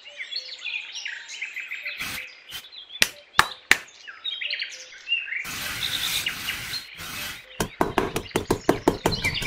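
Songbirds chirping and tweeting throughout, with a few sharp taps in the middle and a short rustling rush. Near the end a small metal hand trowel starts scraping and tapping quickly across sand, several strokes a second.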